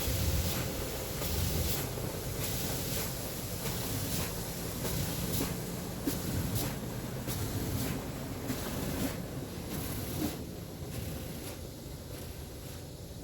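Istobal MNEX 22 automatic car wash working over the car, heard from inside the car: a rushing wash of spray noise that surges about twice a second over a low rumble, easing off about ten seconds in.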